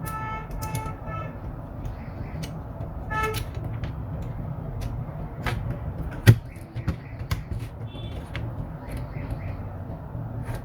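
Short vehicle horn toots, a few in the first second and again about three seconds in, over a steady low rumble like traffic, with scattered clicks and one sharp knock about six seconds in.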